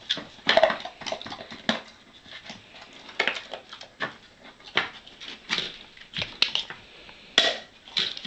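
Irregular wooden knocks and clatters, about eight of them, as a golden retriever puppy noses and paws at the drawers and lids of a wooden puzzle box.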